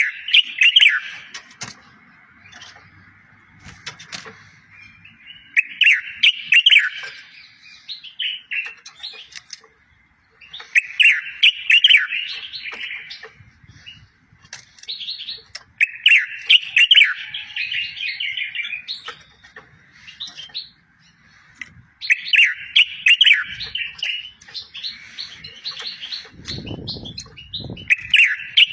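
Songbird song used as tutor song for goldfinches and canaries: phrases of quick falling notes and trills, repeated about every five seconds, six times in all. A brief low thud comes near the end.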